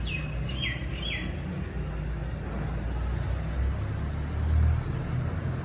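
Sparrow nestlings begging in the nest after it is touched: a few short falling chirps in the first second, then thin high cheeps about every half second, over a low rumble.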